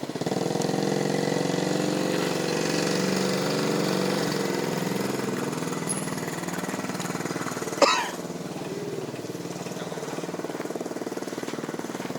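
A small engine starts up and runs steadily, with a fast even pulsing. It eases a little in the second half. There is one sharp click about eight seconds in.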